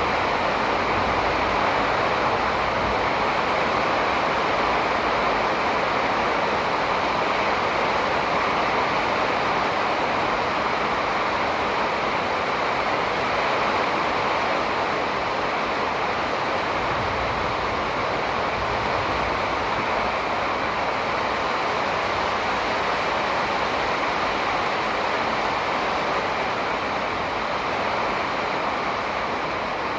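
Steady, unbroken rushing noise, even in level throughout, of the kind running water or wind makes; no bird calls stand out above it.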